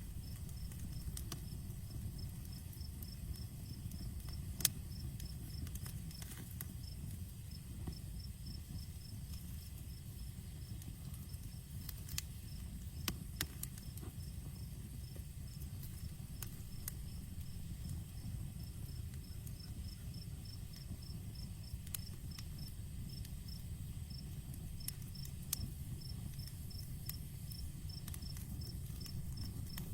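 Campfire crackling, with sharp pops scattered irregularly over a low steady rumble of the burning fire; one pop about five seconds in is the loudest. A cricket chirps steadily in the background, about three short chirps a second.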